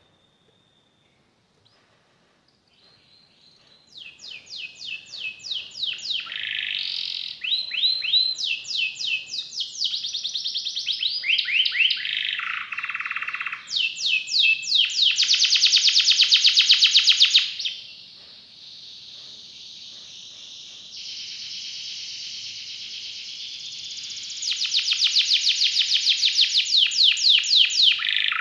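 Domestic canary singing a long song of fast repeated trills and rolls, starting a few seconds in after near silence. A softer, steady roll comes in the middle before a loud, fast trill near the end.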